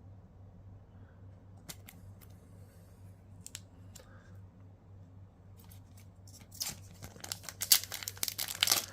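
A few light clicks of trading cards being handled, then, from about two-thirds in, a dense crackling run of tearing and crinkling as a booster pack wrapper is ripped open.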